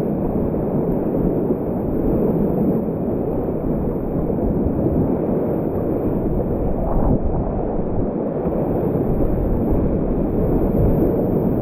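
Steady, loud rush of whitewater rapids, with no change or pause.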